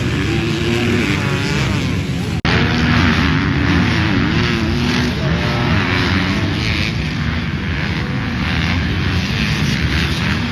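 Motocross dirt bike engines revving up and down in pitch, with a brief cut about two and a half seconds in.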